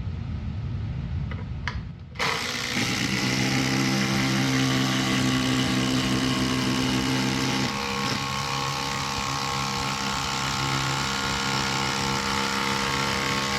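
Two cordless impact drivers hammering side by side, driving fasteners in a race. They start together about two seconds in and run steadily, with the pitch pattern shifting partway through, until both stop right at the end.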